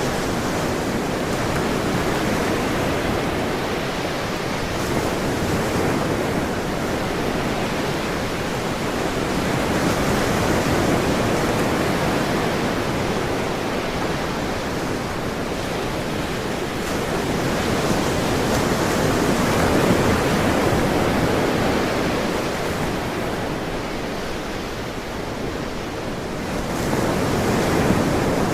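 Ocean waves washing onto a shore in a continuous rush of surf that swells and eases every several seconds, with a lull shortly before the end and a fresh wave breaking near the end.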